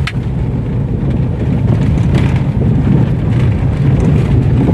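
Mahindra XUV500 being driven over a rough road: a steady low rumble of road and running noise with a few knocks from the front suspension, which the mechanic suspects come from worn link rods or lower-arm ball joints.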